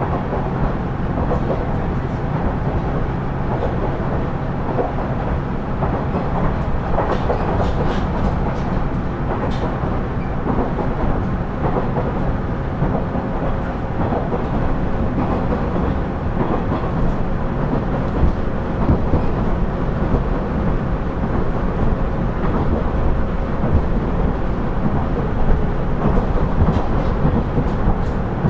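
KiHa 112 diesel railcar (KiHa 110 series) running along the line, heard from on board: a steady diesel engine and wheel-on-rail rumble. A few light clicks come through, a cluster of them a quarter of the way in and again near the end.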